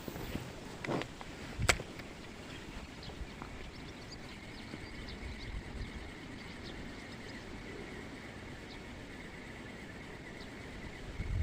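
Steady low rumble of wind and water around a small boat, with two sharp knocks about a second in and shortly after. From about four seconds in come faint, high chirping calls.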